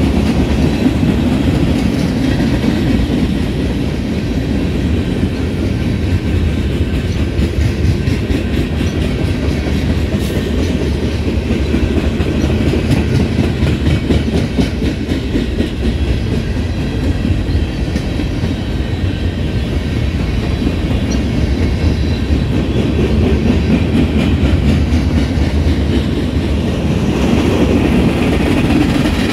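Freight cars of a manifest train rolling steadily past on the near track: a continuous wheel-on-rail rumble with rapid clicking as the wheels cross the rail joints.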